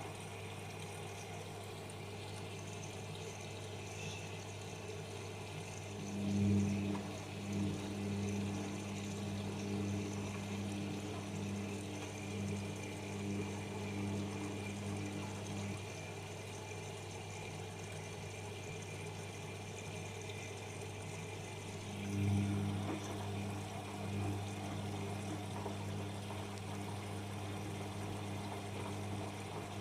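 Whirlpool FL 5065 washing machine draining and rinsing: a steady low hum with water sloshing and pouring. A stronger, louder hum joins twice, about six seconds in until about sixteen, and again from about twenty-two seconds, each time starting with a short swell.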